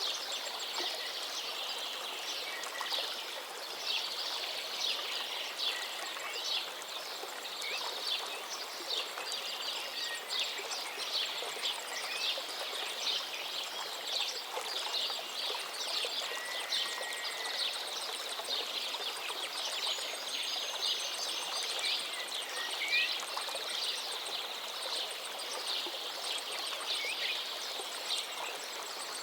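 A forest river flowing steadily, with songbirds singing over it: a dense run of short high chirps and a few whistled glides.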